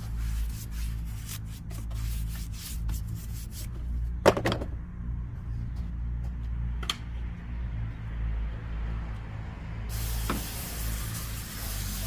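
Nylon detailing brush scrubbing in an engine bay with a rapid scratching, a sharp knock about four seconds in and a lighter one near seven seconds, then a spray hissing steadily from near the end, over a steady low hum.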